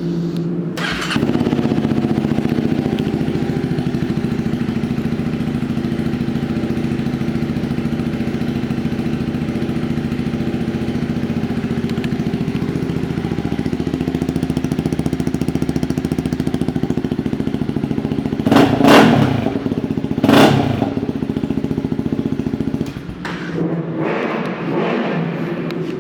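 Honda CB300F's single-cylinder engine, with an aftermarket exhaust pipe, running at a steady idle. Its throttle is blipped twice, two short revs a second or so apart, about three-quarters of the way through. The sound drops quieter near the end.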